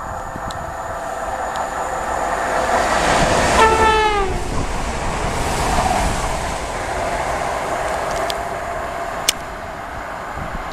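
A passenger train running through a station at speed, its rush swelling and then fading, sounds one short horn blast about three and a half seconds in, the note dropping in pitch as it passes. A sharp click near the end.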